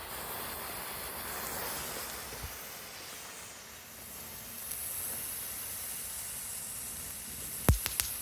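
Small crackling fountain firework burning: its coloured Bengal-flame pre-burner hisses steadily, then sharp crackles begin near the end.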